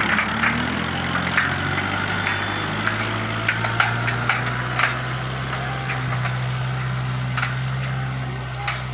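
Kubota MU4501 tractor's four-cylinder diesel engine running at a steady speed, with scattered sharp clicks and rattles over it.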